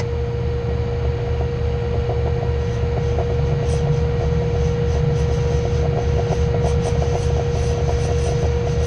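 Machine tool motor running steadily with a low hum while a boring tool cuts a hole in hard plastic. Faint crackling from the cut starts about three seconds in.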